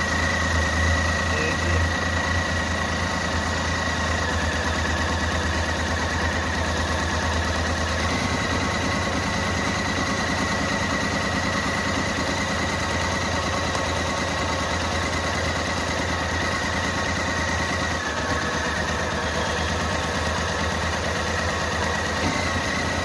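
Renault Kwid's 799 cc three-cylinder petrol engine idling roughly with a misfire: cylinder number 2 is not firing. A steady high whine runs over the engine note.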